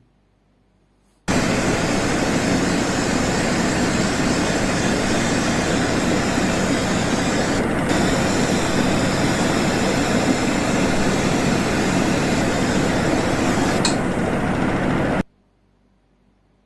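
Old electric potato peeler running steadily. It starts abruptly about a second in and cuts off abruptly near the end.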